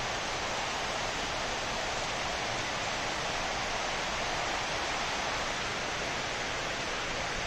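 Steady rain falling on dense tropical foliage: an even hiss with no breaks.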